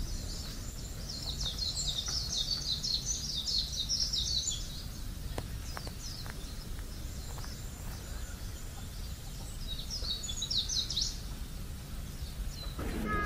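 Small songbirds chirping and twittering in quick high notes, busiest over the first few seconds and again briefly near the end, over a steady low rumble.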